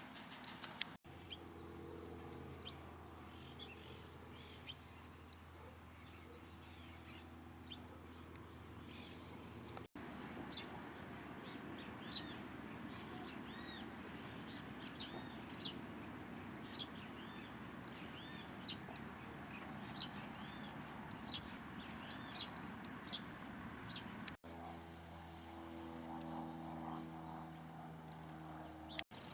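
Small birds chirping: short, high, sharp chirps every second or so, some as arched notes, over steady background noise with a low hum in parts. The sound breaks off abruptly at a few edits.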